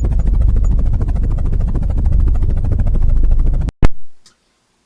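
Helicopter rotor sound effect: a loud, steady, fast chop of rotor blades that cuts off suddenly near the end, followed by a single sharp click.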